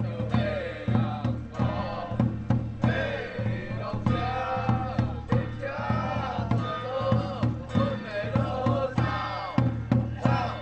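Taiwanese temple ritual music: voices chanting a wavering melody over steady drum beats, about two a second, with other instruments.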